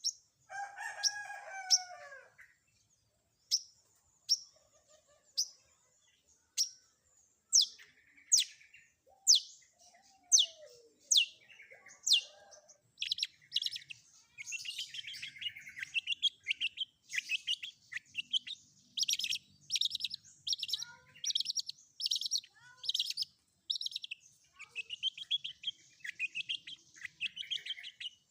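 Long-tailed shrike (cendet) singing a varied song with mimicked phrases. A lower, falling phrase comes near the start, then a run of sharp, high, down-slurred notes about one a second, and these quicken into dense chattering trills in the second half.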